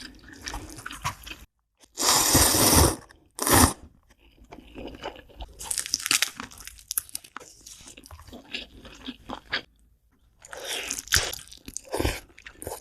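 Close-miked eating: crunchy bites and chewing of snack food. There is a loud crunching burst about two seconds in and a shorter one just after. Softer, crackly chewing follows, with another run of crunching near the end.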